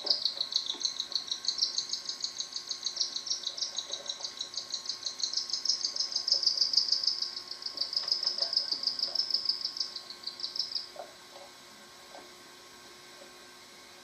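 Cockatiel chick's rapid, rhythmic high-pitched begging cheeps, about six or seven a second, while the father feeds it; the calls stop about eleven seconds in.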